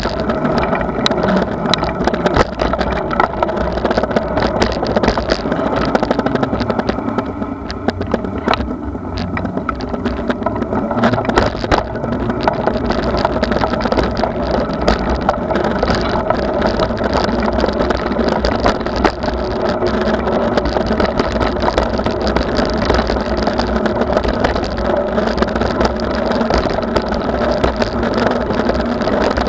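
Steady rumble of wind and rolling noise picked up by a camera on a moving bicycle, with scattered clicks and rattles.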